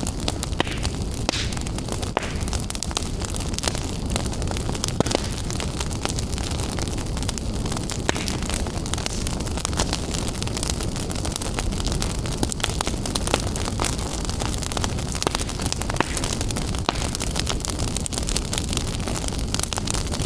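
Wood fire burning in a fireplace, a steady low rumble of flames with frequent sharp crackles and pops.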